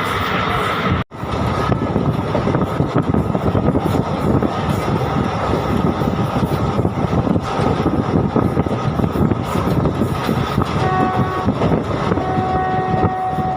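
Moving passenger train: steady loud rumble of wheels and carriages running on the track. Near the end a train horn sounds twice, a steady chord-like blast.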